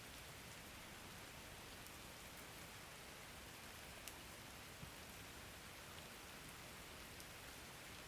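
Faint, steady rain: an even hiss of falling rain, with a few sharp drop ticks about four and five seconds in.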